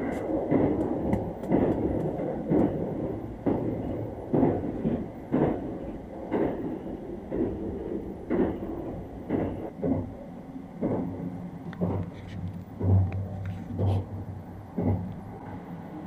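Sunrise Izumo sleeper train running, heard from inside a compartment: a steady low rumble with a regular clack about once a second as the wheels pass over rail joints. Bedding rustles as it is handled.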